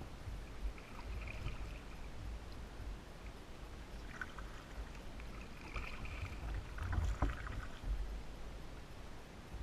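Kayak paddle dipping and splashing through the water in uneven bursts, over a low steady rumble.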